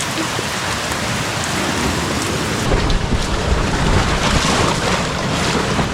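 Steady rain falling, an even dense hiss. About halfway through, a heavy low rumble joins it.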